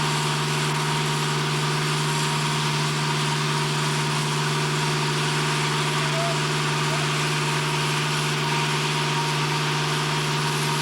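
Steady machinery drone: a constant low hum with overtones and a wash of hiss, unchanging in level throughout.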